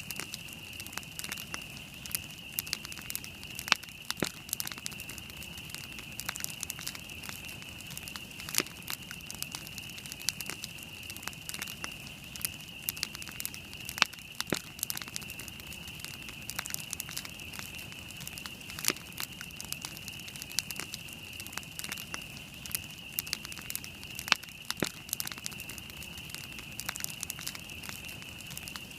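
Wood campfire crackling, with frequent sharp pops and a few louder snaps over a steady high-pitched hiss.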